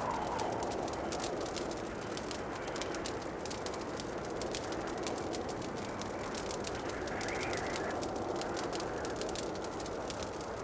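Wood fire crackling in a fireplace: many small irregular pops and snaps over a steady rushing background.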